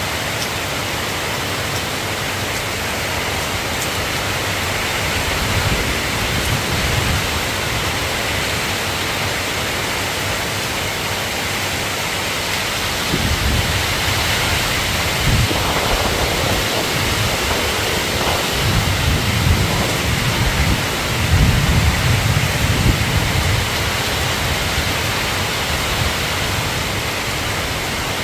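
Steady rain falling, with several low rolls of thunder that swell and fade: one about six seconds in, then more through the middle of the stretch.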